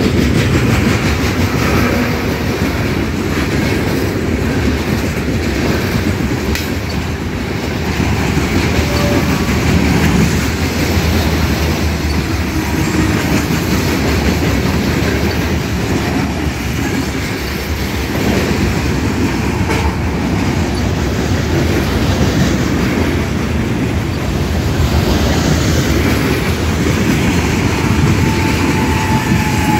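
Coal train's hopper cars rolling past, a steady loud rumble of steel wheels on the rails with no letup. A faint thin wheel squeal comes in near the end.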